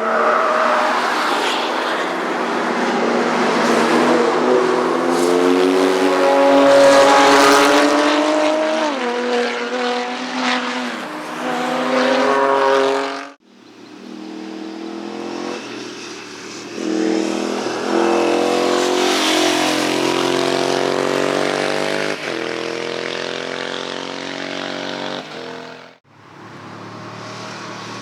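Motorcycle engines at high revs as bikes pass on a racetrack, their pitch rising and falling with throttle and gear changes. The sound cuts off abruptly about halfway through and again near the end, and each time a new pass begins.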